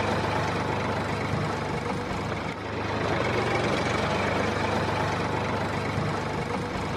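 Diesel tractor engine running steadily at a low, even speed.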